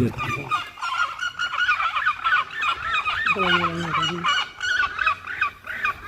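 Many birds calling at once, a dense run of short calls with no break. A lower, drawn-out call comes about three and a half seconds in.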